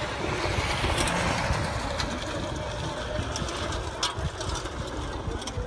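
Distant engine of a Mitsubishi Galant Fortis dirt-trial car running on the course, heard across open ground, under a steady low rumble of wind on the microphone.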